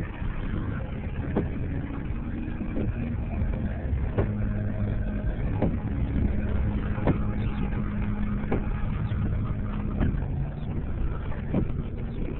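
Storm surf and wind rumbling steadily, with a constant low hum underneath and a scatter of sharp knocks.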